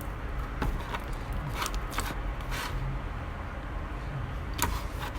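Scattered light clicks and short rustles of handling over a steady low rumble.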